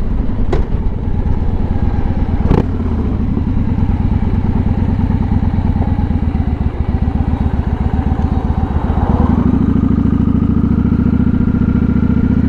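Motorcycle engine running at low speed with a fast, even pulsing as the bike rolls through a left turn, two sharp clicks sounding in the first three seconds. About nine seconds in the engine note smooths out and a faint tone rises as it picks up speed.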